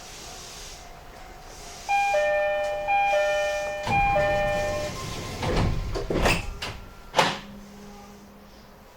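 Door chime of an E131 series commuter train sounding three times as the doors close, followed by a run of thuds and a final sharp clunk as the sliding doors shut.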